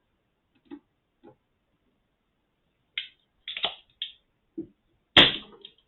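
Scattered clicks and knocks of small tools being handled on a workbench during desoldering, the loudest a sharp snap about five seconds in.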